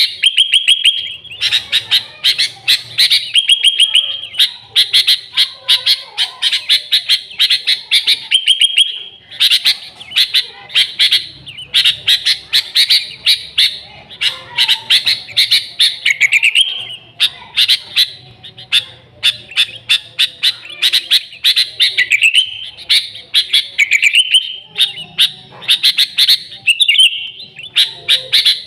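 Sooty-headed bulbuls (kutilang) singing loudly and without a break: fast runs of short chattering notes and trills, with a few rising slurred phrases.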